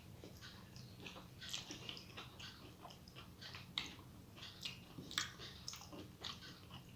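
Close-up eating sounds: a person chewing a mouthful of rice with mashed okra (bhindi bharta), with soft irregular wet clicks and lip smacks, a few louder smacks about a second and a half in, near four seconds and after five seconds.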